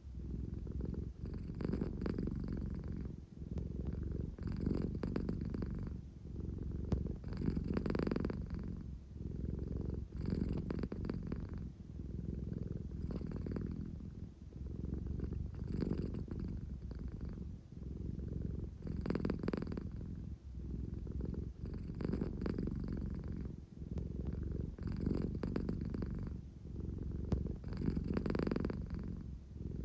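American Shorthair cat purring steadily, a low rumble that swells and eases with each breath, about once every two to three seconds.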